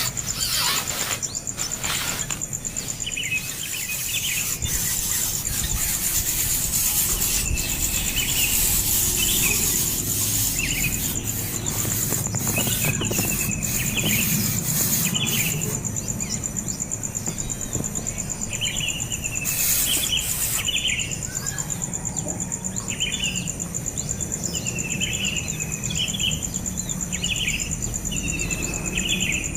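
Young bird's begging calls: short, sharp chirps repeated about once a second, over a steady high-pitched insect drone.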